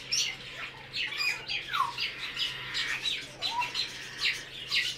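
Many caged birds chirping and calling together: a dense run of short, high chirps, with a few calls that slide downward in pitch.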